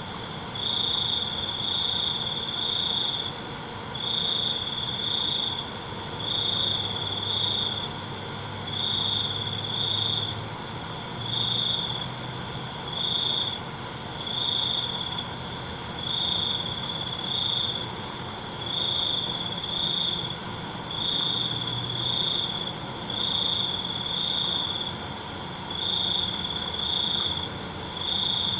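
Crickets chirping at night: a loud chirp repeating every second or two, often in pairs, over a fainter, faster chorus and a steady high buzz from other insects.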